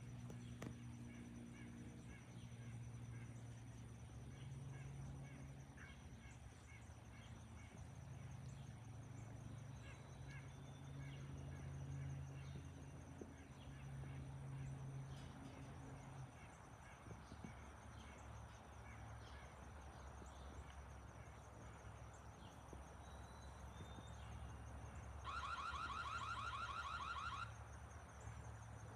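Faint, steady low rumble of an Airbus A330-300's Rolls-Royce Trent 700 jet engines passing overhead, with small bird chirps in the first half. Near the end comes the loudest sound: about two seconds of a rapid, pulsing electronic alarm-like tone.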